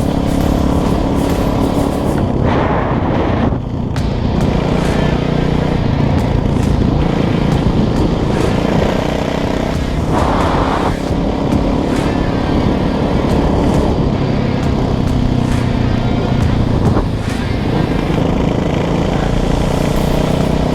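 Kawasaki KX450 dirt bike's single-cylinder four-stroke engine running under way, its pitch rising and falling as the throttle opens and closes, with a couple of short rushes of noise.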